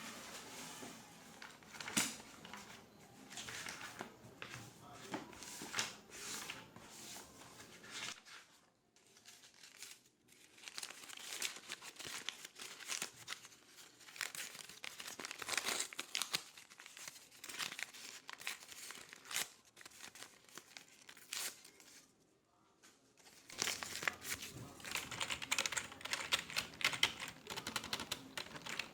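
Office desk sounds: irregular clicking and crinkling handling noises, with two brief lulls about a third of the way in and a dense run of quick keyboard typing in the last few seconds.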